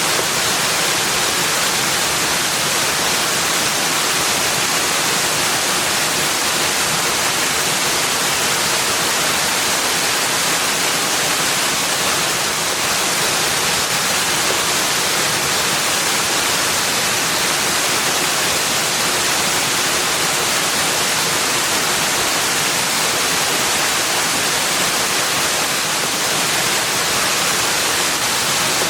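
Steady, unbroken rushing of flowing water, an even hiss with no distinct events.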